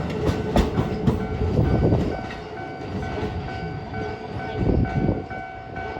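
Keikyu New 1000 series electric train passing over a level crossing, its wheels clacking over rail joints, fading about two seconds in. After that the level-crossing warning bell is heard ringing in a steady repeating beat, with a brief low rumble near the end.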